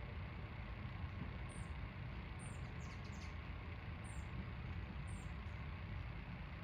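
Hummingbird giving short, very high chip notes, four of them about a second apart, over a steady low background rumble.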